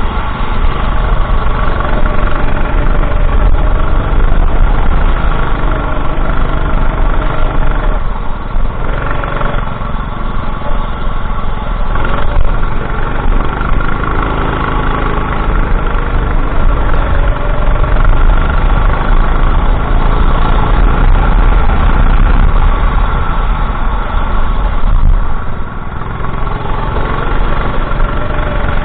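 Go-kart engine running continuously at race pace, its pitch rising and falling a little as the kart speeds up and slows for corners, with short dips in level about a third of the way in and again near the end.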